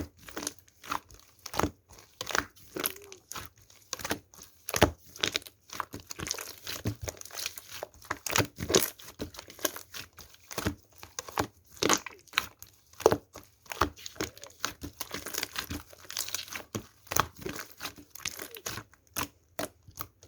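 Slime being squished and stretched by hand, giving a dense, irregular run of sharp clicks and crackles.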